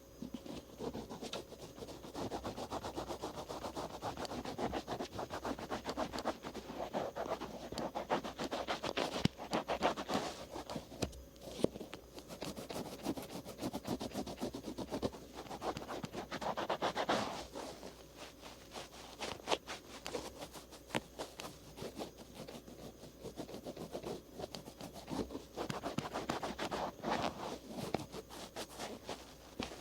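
Cotton swabs rubbing and scratching over the outer ear close to the microphone in quick, continuous strokes, easing off for a few seconds about two-thirds of the way through.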